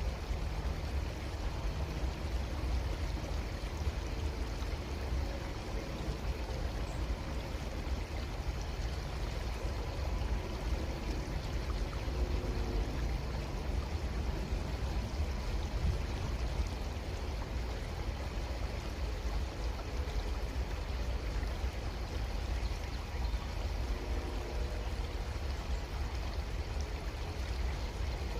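A creek flowing steadily, its water making a continuous, even rush.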